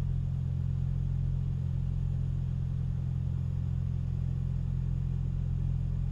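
2006 BMW Z4 M's S54 inline-six with its muffler deleted, running at a steady engine speed with no revving, heard from inside the roadster's cabin.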